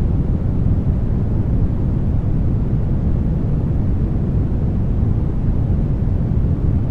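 Brown noise: a steady, unchanging rumbling hiss, heaviest in the bass and thinning out toward the highs.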